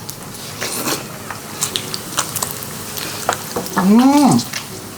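Meat sizzling on a grill, with scattered clicks of utensils. About four seconds in, a person lets out one drawn-out vocal exclamation that rises and then falls in pitch.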